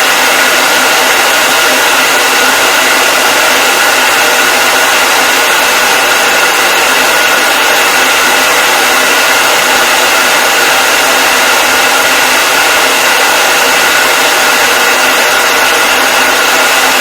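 Hair dryer running steadily: an even, loud rush of air with a faint steady whine from its motor, unchanging throughout.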